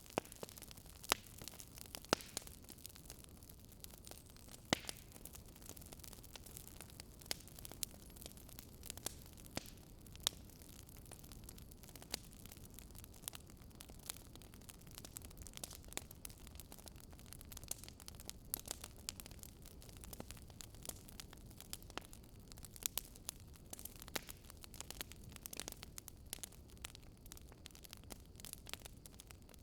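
Wood fire crackling in a fireplace: irregular sharp pops and snaps over a faint, steady low hiss of the flames.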